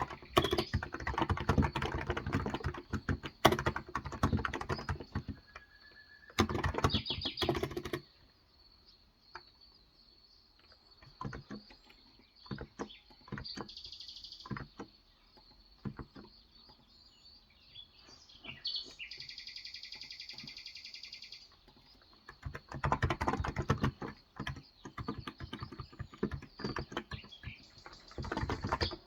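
Fast typing on a Cox Endeavor contactless (electrostatic capacitive) 35 g tenkeyless keyboard: dense runs of soft keystrokes at the start and again from about three quarters of the way in, with scattered single keys in the lull between. In that lull a bird chirps once briefly, then gives a longer call lasting about two seconds.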